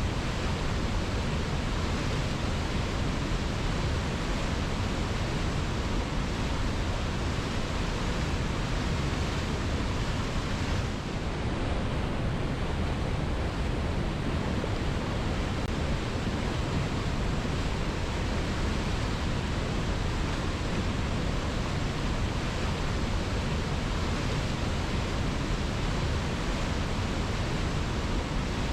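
Waterfall: a steady, dense rush of falling water, heaviest and deepest in the low end.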